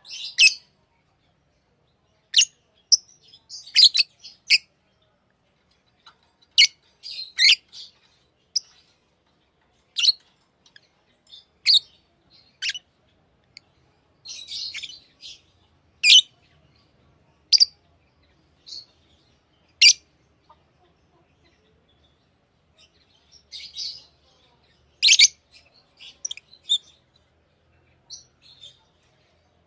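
Pet lovebirds chirping: short, sharp, high-pitched calls at irregular intervals with quiet gaps between, and a brief softer chatter about halfway through.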